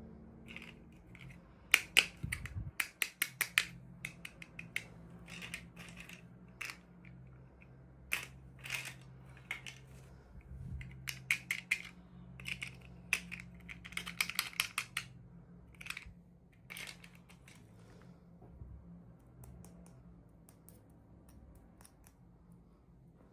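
Hands unboxing small toys: sharp plastic clicks, taps and crackles of packaging in quick clusters, thinning out in the last few seconds, over a low steady hum.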